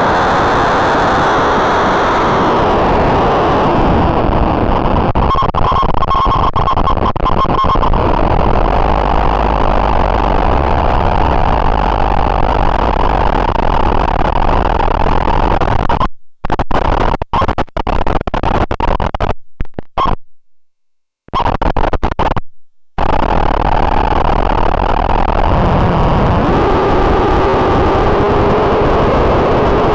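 Oxymoron Eurorack distortion module fed a sine-wave source, giving a harsh, noisy buzzing drone full of overtones while its settings are tweaked. Around the middle the sound chops on and off in stutters and drops out for about a second, and near the end a faint pitch slowly rises beneath the noise.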